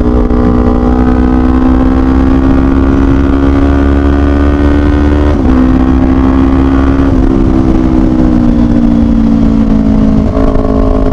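2018 Kawasaki Ninja 250's parallel-twin engine pulling, its pitch climbing slowly and then dropping suddenly about five seconds in as it shifts up a gear. The revs then rise briefly and fall away slowly as the throttle eases, with another sudden change in pitch near the end, over steady wind noise on the microphone.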